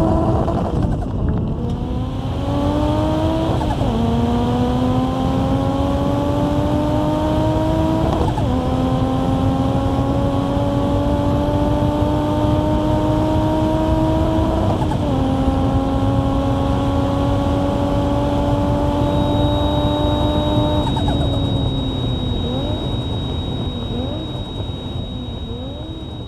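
Car engine accelerating hard and shifting up through the gears: the engine note climbs, then drops sharply at each of about four shifts. After the last shift it eases off and fades away.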